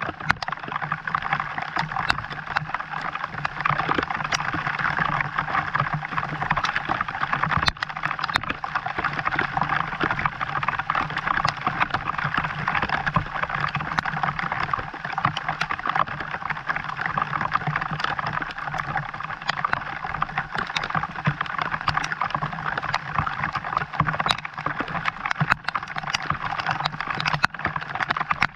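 Steady rain falling, a dense crackling patter of drops, with a low steady hum underneath.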